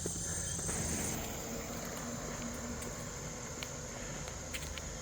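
Crickets trilling steadily at a high pitch, fading back about a second in, over a low rumble with a few faint ticks.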